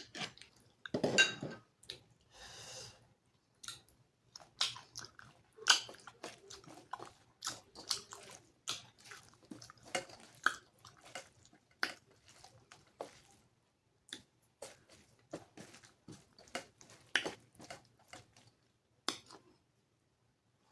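Close-up, wet chewing of a mouthful of rice and curry, with irregular lip smacks and mouth clicks.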